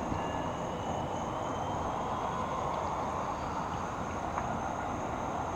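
Steady outdoor background noise: a low, even rumble with a faint high steady tone above it, and no distinct event standing out.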